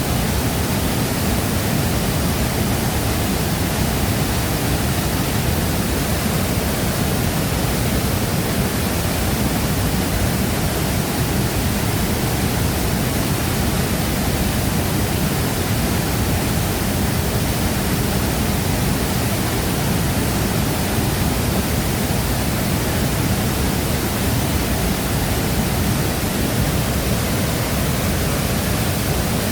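Shifen Waterfall pouring: a steady, unbroken rush of falling water, heaviest in its low rumble and unchanging throughout.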